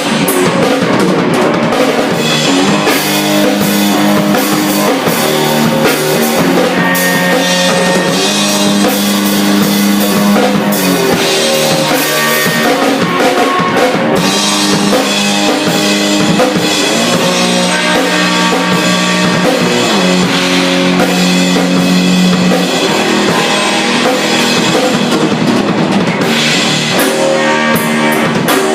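Drum kit and electric guitar playing an improvised rock jam: steady busy drumming with cymbals and kick under sustained, distorted guitar notes.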